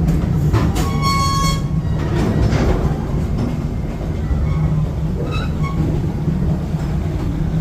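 Amusement-park passenger train running along its track: a steady low rumble from the moving cars, with a brief high-pitched tone about a second in.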